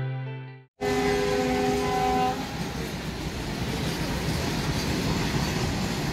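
A train horn sounds for about a second and a half, then a freight train of empty flat wagons rolls past with a steady rumble.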